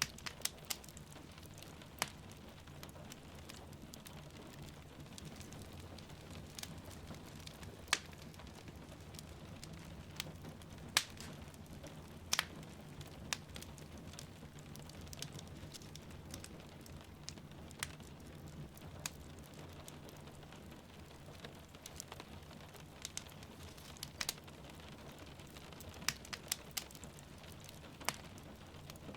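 Wood fire crackling in a fireplace, with sharp, irregular pops every second or so. Underneath is a steady hiss of falling rain and a low steady rumble.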